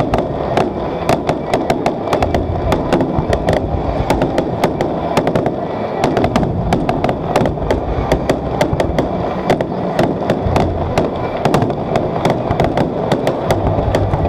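Fireworks display: a dense, unbroken run of bangs and crackles, several a second, over a constant low rumble.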